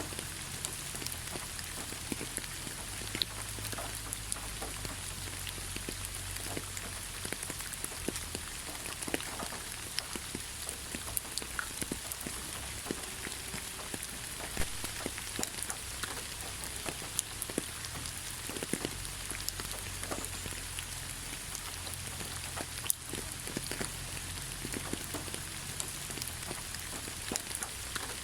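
Steady rain falling on leaves: a constant hiss with many separate drops pattering irregularly, and a low rumble underneath.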